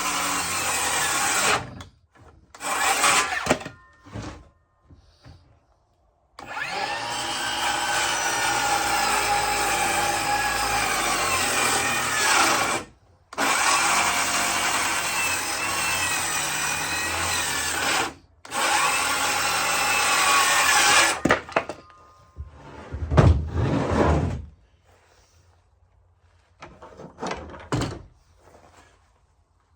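Electric power saw cutting a wooden board in several long runs, its pitch sagging and wavering under load, with short stops between cuts. A couple of heavy wooden thumps come after the last run, followed by scattered knocks.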